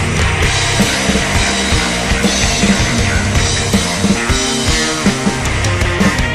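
Loud rock music: a band recording with electric guitar and a driving drum kit.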